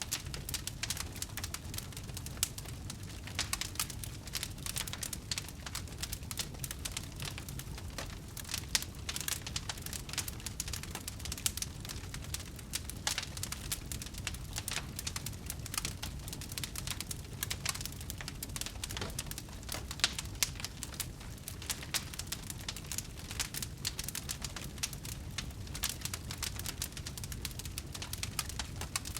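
Wood fire crackling steadily, with dense sharp pops and snaps over a low rumble of burning, a few louder pops standing out.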